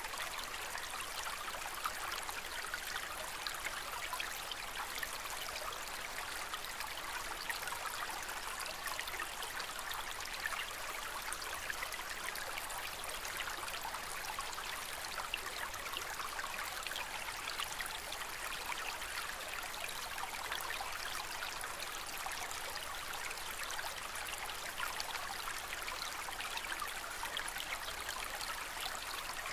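Aquarium water trickling and splashing steadily, a continuous gentle stream of falling water with a fine bubbly crackle.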